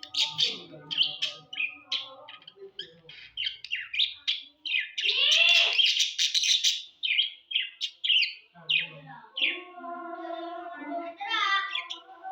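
Budgerigars chirping and warbling in quick, busy bursts, loudest in a long warble about halfway through. Background music with held tones comes in about two-thirds of the way through.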